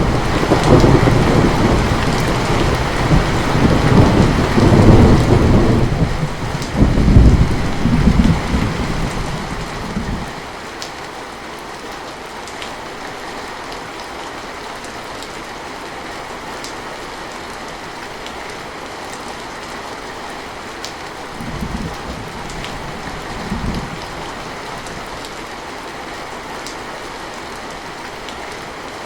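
Steady heavy rain with a long roll of thunder through about the first ten seconds, swelling twice before it fades. Later only the rain goes on, with two short, fainter rumbles of thunder about three quarters of the way through.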